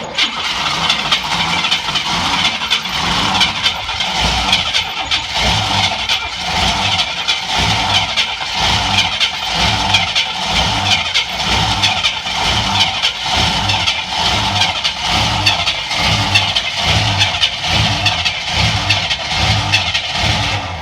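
Chevy Nova engine, primed with fuel poured into the carburetor after 15 years of sitting, catches suddenly and runs unevenly for about twenty seconds, then cuts out near the end. The owner wonders if the ignition timing is off.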